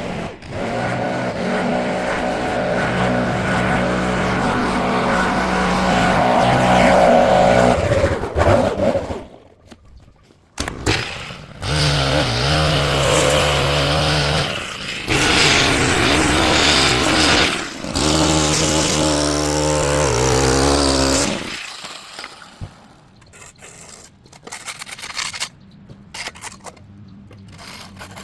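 Small petrol engine of a handheld lawn tool running at high revs in two long stretches, dropping off briefly between them, then only light clicks and rustling near the end.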